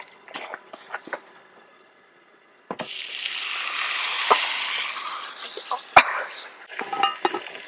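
Loud sizzling hiss over a campfire that starts suddenly about three seconds in, then slowly eases, with one sharp click near the end.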